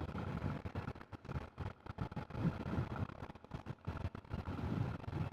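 Wind buffeting the microphone: an uneven, gusty low rumble that rises and falls in quick irregular surges.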